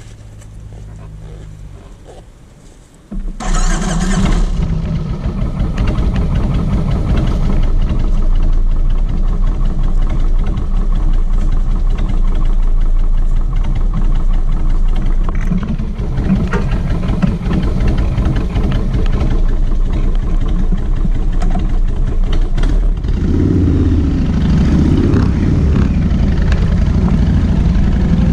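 Kawasaki VN1600 Mean Streak V-twin motorcycle engine starting. A low whirr for about three seconds, then the engine fires with a sudden blip about three seconds in and settles into a steady, lumpy idle. Near the end the engine note changes and grows fuller as it is revved.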